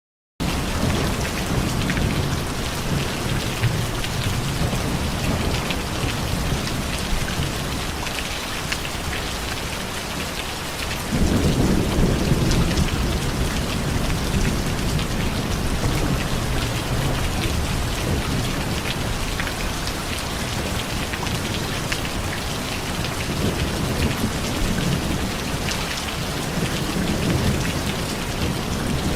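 Steady rain falling, with a low rumble of thunder that swells suddenly about eleven seconds in and rolls on more softly afterwards.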